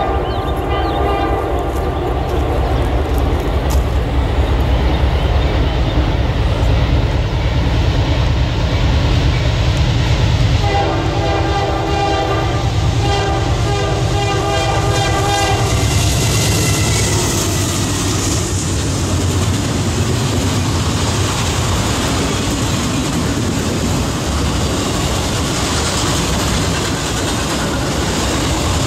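Locomotive air horn sounding a chord, briefly at the start and again in a long blast from about ten to sixteen seconds in, over a heavy diesel engine rumble. Then a diesel-hauled freight train of autorack cars rolls past close by, a steady noise of wheels on rail.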